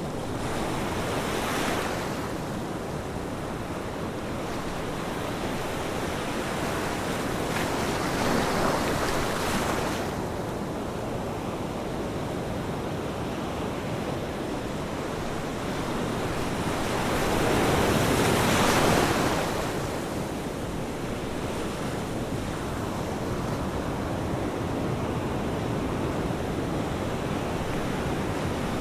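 Ocean waves breaking on a shore: a continuous surf wash with three louder breakers swelling and falling away, the biggest about two-thirds of the way through.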